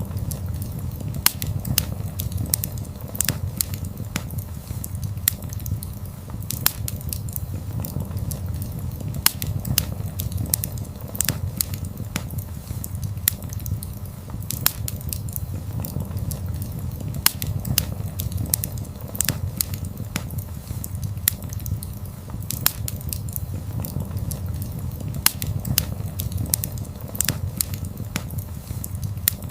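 Wood fire crackling, with frequent irregular sharp pops and snaps over a steady low rumble of burning flames.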